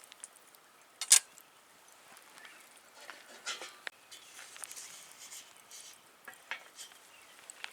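Scattered clicks and knocks of cooking gear being handled, the loudest a sharp knock about a second in, with a short scraping rasp a little past the middle.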